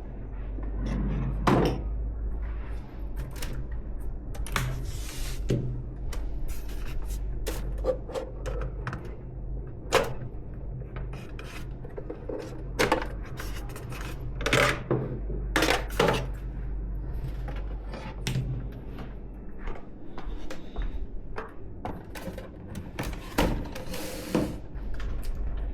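Hands handling computer parts during a PC build: a string of clicks, taps and knocks of plastic and metal, with rubbing and scraping between them. A steady low hum underneath stops about twenty seconds in.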